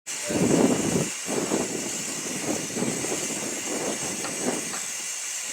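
Miniature steam locomotive of the 15-inch gauge Romney, Hythe and Dymchurch Railway hissing steam, with a string of exhaust chuffs, the first and loudest about half a second in.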